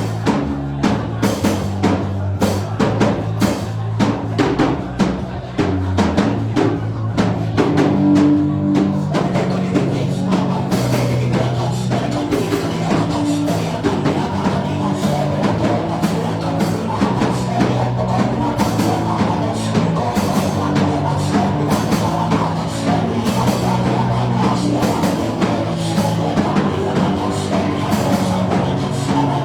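Band music with a drum kit keeping a steady beat over held bass notes and chords.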